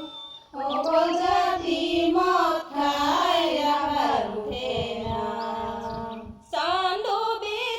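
Background music with a high singing voice holding long, wavering notes, breaking off briefly near the end before going on.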